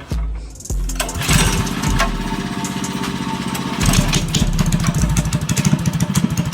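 Freshly rebuilt Tillotson 212 single-cylinder minibike engine with an open header running on its first start, choke on. It drops out briefly at the start, picks back up with an even, rapid firing beat, and gets louder about four seconds in.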